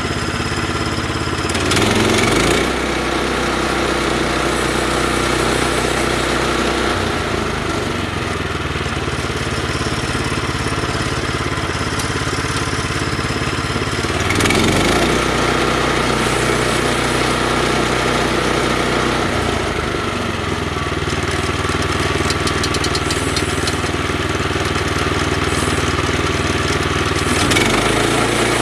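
Sawmill engine running steadily, its pitch and load shifting every few seconds, with brief louder swells about two seconds in, midway and near the end.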